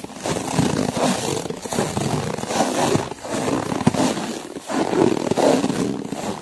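Footsteps crunching through snow, one crunching step after another in a steady walking rhythm.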